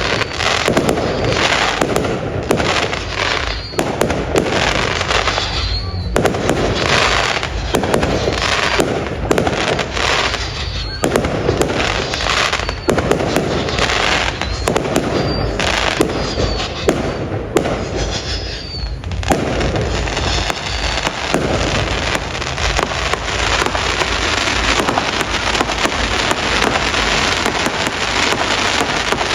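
Fireworks display: a rapid, continuous barrage of bangs and crackling, thickening into a dense, even crackle about two-thirds of the way through.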